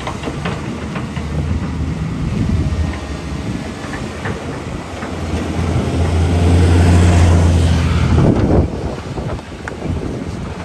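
Caterpillar 320 excavator's diesel engine running under hydraulic load, with scattered knocks. The engine swells louder about six seconds in and drops back sharply a couple of seconds later.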